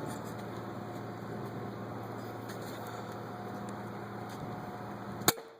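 Steady outdoor background of wind noise with a low machine-like hum. About five seconds in comes one sharp crack, after which the sound drops off suddenly.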